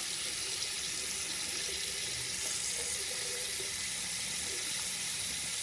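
Water running steadily from an open tap, a steady hiss. The tap is left open to flush the line and draw hot water from a gas water heater that is still giving cold water.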